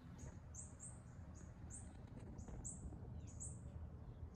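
A small songbird chirping repeatedly: short, very high notes, about two or three a second, over faint low background noise.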